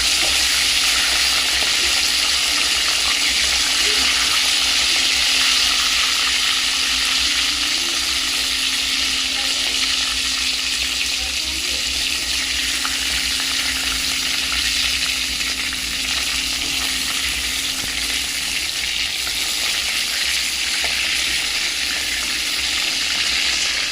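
Salted chicken pieces deep-frying in hot oil, a steady sizzle throughout.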